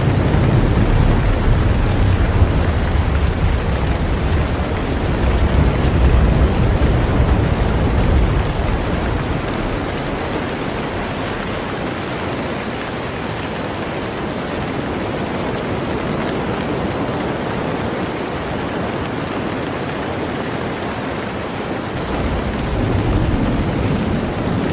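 Heavy rain falling on a boat, a steady dense hiss. A low rumble underlies it for roughly the first third, dies away, and comes back near the end.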